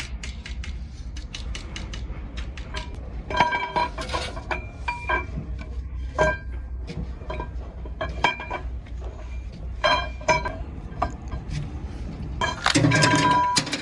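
Metal tools and engine parts clinking and ringing as they are handled and knocked together, with a steady low hum underneath. Near the end comes a longer, louder metallic ringing of about half a second.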